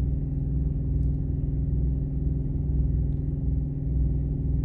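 Semi-truck diesel engine idling, heard inside the cab: a steady low drone with a slow throb that swells about once a second.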